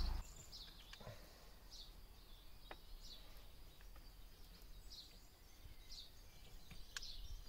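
Small birds chirping in the background, short high chirps repeating about once a second, with a few faint clicks.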